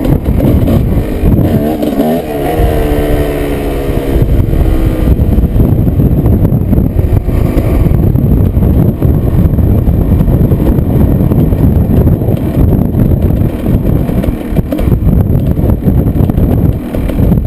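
Strong dust-storm wind buffeting the microphone, a constant heavy low rumble. From about two to five seconds in, a pitched whine sweeps up and down underneath it.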